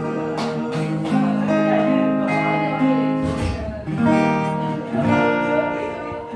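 Acoustic guitar strumming sustained chords, the instrumental close of a folk song after the singing has ended.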